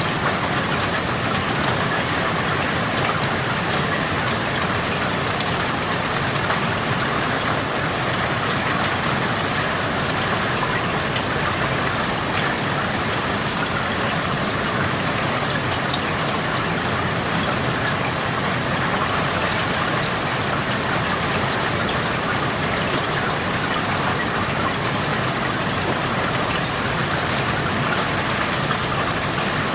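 Steady rain falling and pattering on outdoor surfaces, heard through an open window, with fine scattered drop ticks in an even hiss.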